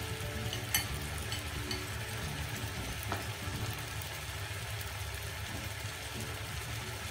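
Chopped onions, chicken and spices frying in oil in a pot, a steady sizzle over a low hum, with two light clicks near the start.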